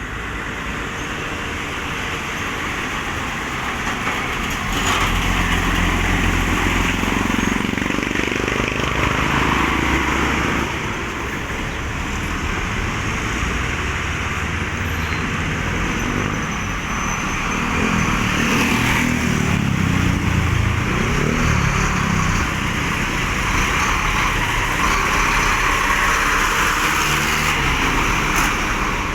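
Road traffic with cargo trucks passing: a steady engine and tyre noise that swells twice as vehicles go by close.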